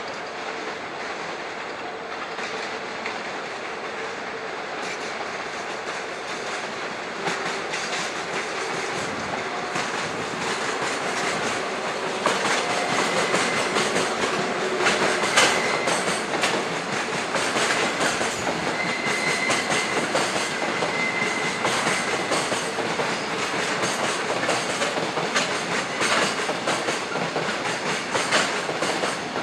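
Container freight wagons rolling slowly past, wheels clacking over rail joints and points. It gets louder several seconds in as the cars come by, with a brief high wheel squeal now and then.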